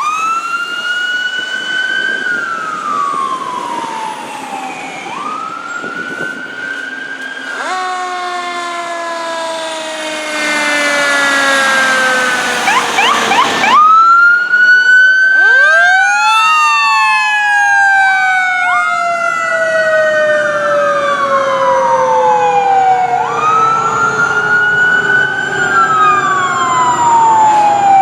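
Fire apparatus sirens wailing, several at once and overlapping, each rising and then falling over a few seconds. It grows louder from about ten seconds in, with a lower set of tones sliding slowly downward in the middle.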